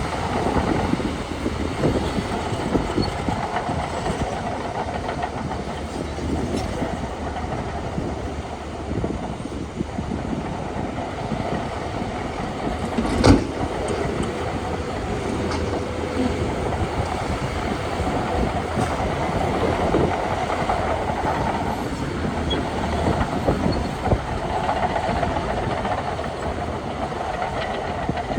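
Shantui DH17 C2 crawler bulldozer working: its diesel engine runs steadily under load while the steel tracks clank and rattle, with one sharp metallic bang about halfway through.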